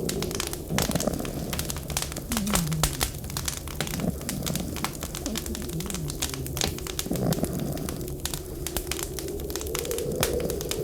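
Wood fire crackling with many sharp pops, over a wavering wind howl that swells near the end. Several short, low tones fall in pitch throughout.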